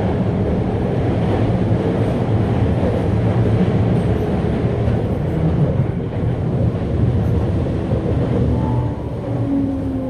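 Running sound inside a Toei 5300 series electric train: a steady rumble of wheels on rail. Near the end a motor whine comes in and falls in pitch as the train slows.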